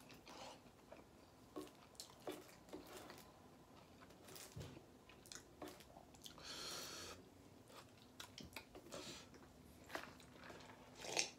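Faint chewing and mouth sounds of a man eating a taco, with small scattered clicks, a brief rustle a little past halfway and a short louder sound near the end.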